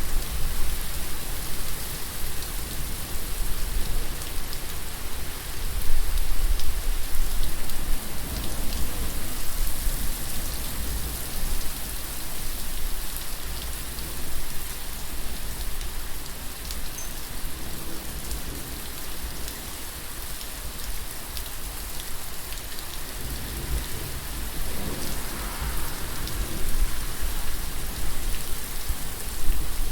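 Steady rain falling: a dense, even hiss of drops with a low rumble underneath.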